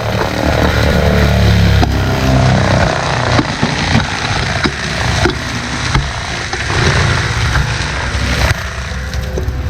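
Heavy diesel land-clearing machinery running hard, with sharp cracks and knocks of brush and wood breaking, several times over.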